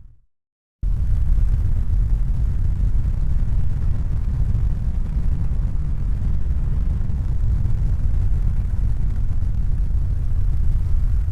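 Steady, even low rumbling noise with no distinct events or pitch. It comes in abruptly just under a second in, after a short silence, and starts to fade out at the very end.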